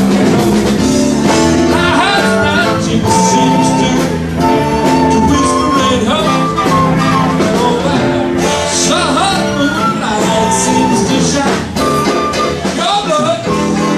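Live band playing a blues-rock number with guitar.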